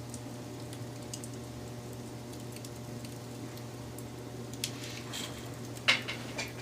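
Wood fire crackling, with scattered small pops over a steady low hum and a louder burst of crackles and a sharp pop near the end.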